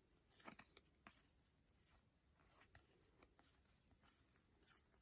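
Near silence in a small room, broken by a few faint, short rustles and clicks of photocards and plastic sleeves being handled.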